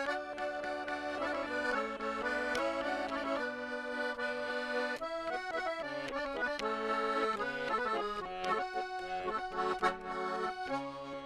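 Russian garmon (button accordion) playing a solo instrumental introduction: a melody over sustained chords and bass, changing chord every second or two.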